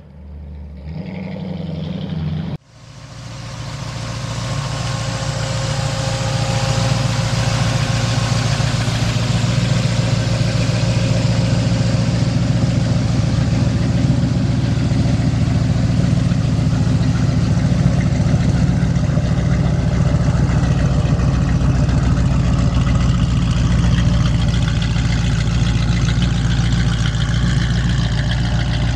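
1969 Mustang's 351 Cleveland Cobra Jet V8 with custom headers and MagnaFlow-type exhaust. It is first heard driving on the road, then after a sudden cut it idles steadily and loudly.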